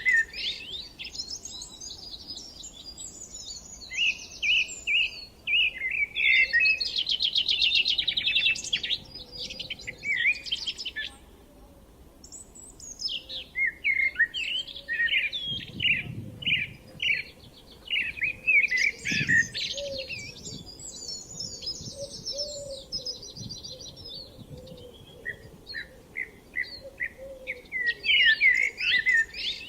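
Small songbirds singing in spring countryside: quick chirps and trilled phrases, overlapping, with short lulls about a third of the way in and again near the end.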